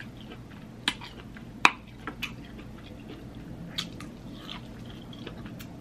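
Close-miked chewing and biting into corn on the cob, with several sharp, crisp clicks of kernels being bitten off. The loudest comes a little under two seconds in.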